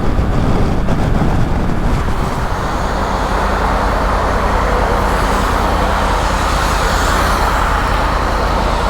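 Motorcycle riding at motorway speed: a steady engine note under continuous wind and road noise, which grows a little stronger about halfway through.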